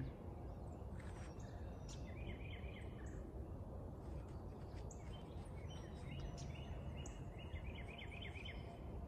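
A songbird singing short phrases of quick repeated chirps, once about two seconds in and again near the end, over a steady low background rumble.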